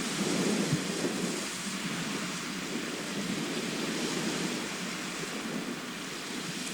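Sea surf washing on a shore: a steady rush of waves with a low rumble that swells slightly about half a second in.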